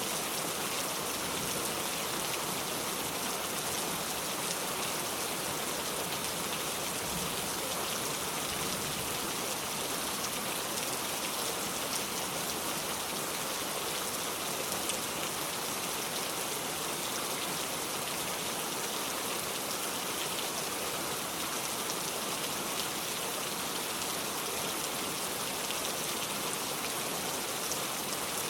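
Heavy rain on a metal roof, falling steadily as a dense, even hiss of countless drops, with no thunder.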